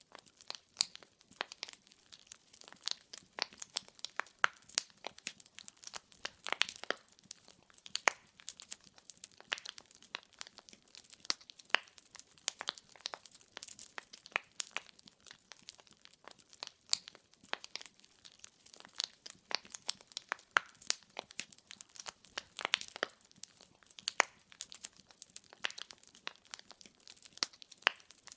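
Firewood logs burning in a fireplace, crackling and popping irregularly with sharp snaps over a faint hiss.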